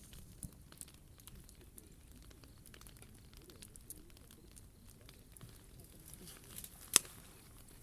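Wood fire crackling, with scattered small pops and one sharp, loud snap about seven seconds in.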